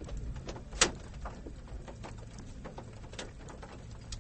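Irregular light taps of scattered raindrops hitting the parked car, with the wipers off, over a low steady hum.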